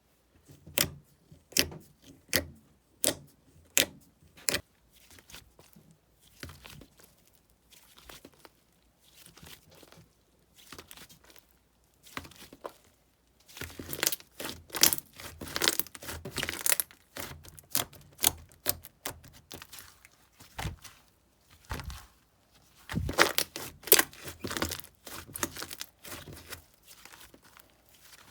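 Cheese slime being handled: a run of sharp sticky pops about one every ¾ second, then softer scattered squishes, then two long stretches of dense crackly clicking as the slime is worked and squeezed.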